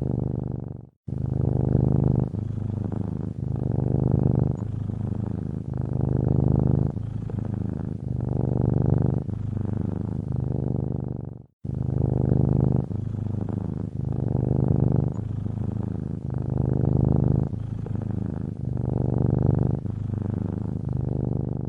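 Domestic cat purring steadily, swelling and easing with each breath in cycles a little over a second long. The purr cuts out for a moment twice, about a second in and again near the middle.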